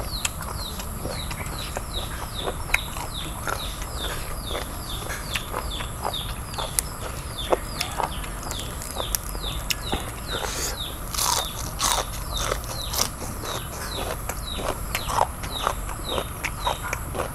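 A bird chirping over and over, about three short falling chirps a second. Scattered sharp crunches and clicks of someone chewing crisp food sound over it.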